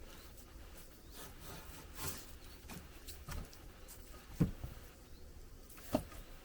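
A few scattered knocks and rustles, with two sharper knocks about four and a half and six seconds in.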